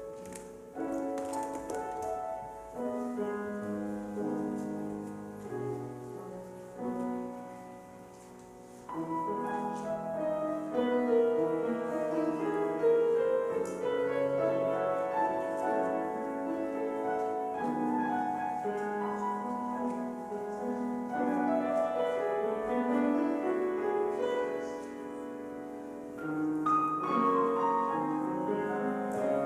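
Solo piano playing slow offertory music in chords and flowing lines. It is quieter and sparser at first, then fuller and louder from about nine seconds in.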